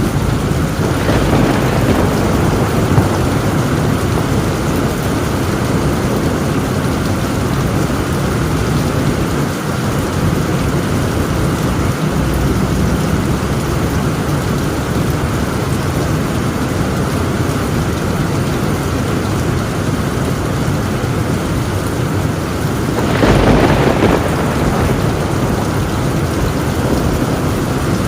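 Heavy rain pouring steadily on a tin roof, with a rumble of thunder swelling up near the end and a fainter one about a second in.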